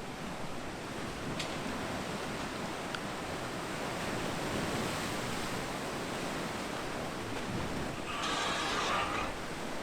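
Ocean surf washing ashore, a steady rushing hiss, with a short higher-pitched sound about eight seconds in.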